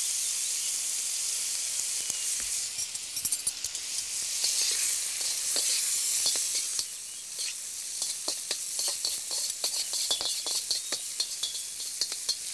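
Pasta with chanterelle mushrooms and shallots sizzling in hot oil in a wok, being stirred and tossed. From about halfway on, many short clicks and scrapes of the spoon and fork against the metal wok join the steady sizzle.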